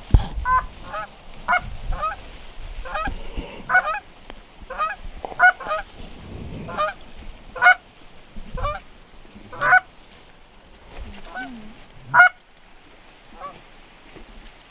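Goose honks in a quick, uneven series, about one call a second, from a flock approaching the decoys.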